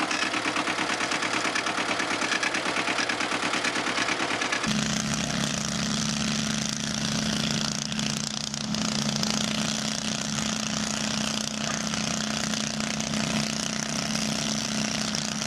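Engine-driven machinery running: first a fast, even pulsing, then an abrupt change about four and a half seconds in to a different, steady machine hum.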